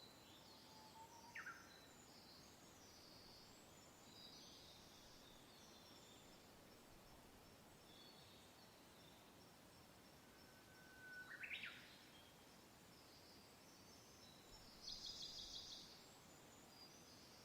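Faint, soft wind hiss with scattered songbird calls: a short whistle sweeping upward about a second in and again about eleven seconds in, high chirps throughout, and a quick trill of about a second near the end.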